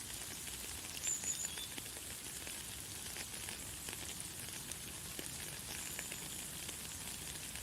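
Light, fine rain falling: a steady hiss of many small drop ticks. A bird gives a brief high chirp about a second in, and a fainter one near the end.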